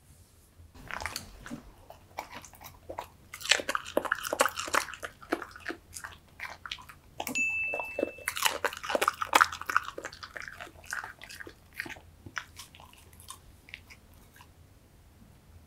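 Dog chewing and crunching cucumber pieces from a plate: a long run of short, sharp bites and mouth smacks, thickest in the middle and dying away near the end. A short steady beep sounds about halfway through.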